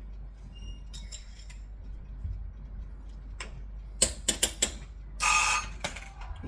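A kitchen timer being set: scattered sharp clicks, a quick run of about five clicks, then a short rasping buzz lasting about half a second.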